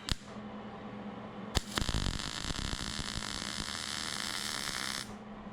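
Arc welding: a steady crackling, frying hiss that starts suddenly after a sharp click about two seconds in and cuts off about five seconds in. It is a weld bead laid into the bevelled seam joining a new skid steer bucket cutting edge to its straps. A faint low hum runs underneath.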